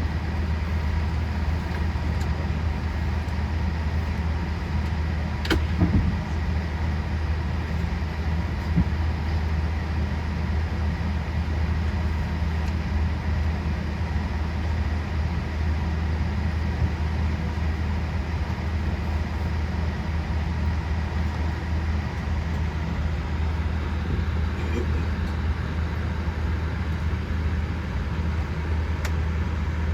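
Steady low cabin hum inside a Boeing 787-8 airliner, with a single sharp knock about five and a half seconds in.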